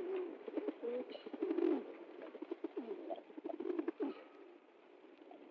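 Pigeons cooing, with several overlapping coos. The coos are densest in the first two seconds and thin out and grow quieter toward the end.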